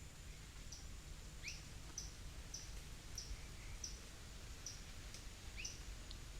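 A bird calling with a short, high chirp repeated about every half second, with a few lower chirps mixed in, over a faint low rumble of outdoor background noise.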